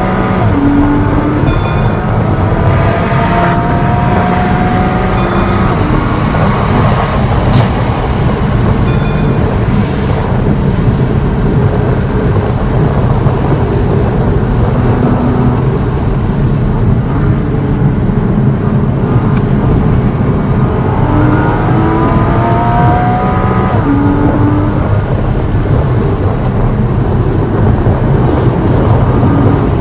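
A car's engine on hard acceleration heard from inside the cabin, revs climbing high before upshifts, then easing off under braking and downshifting for corners before pulling again. Steady tyre and wind noise runs underneath.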